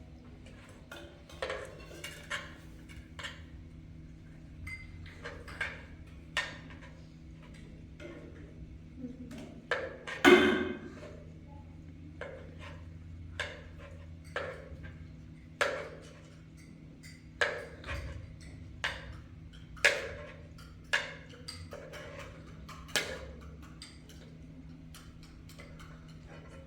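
Irregular series of light knocks and clinks, roughly one a second, with one louder knock near the middle, over a low steady hum.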